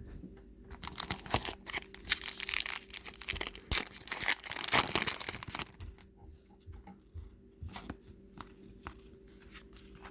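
The wrapper of a trading card pack being torn open and crinkled, the crackling densest over the first half. It thins out to a few scattered light clicks and rustles.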